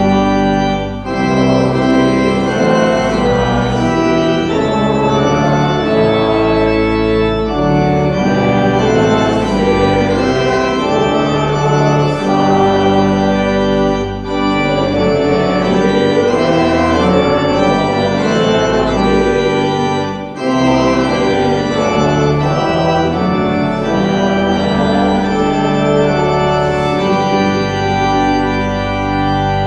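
Organ playing slow, full, held chords, with short breaks between phrases about a second in, about halfway through and about two-thirds of the way through.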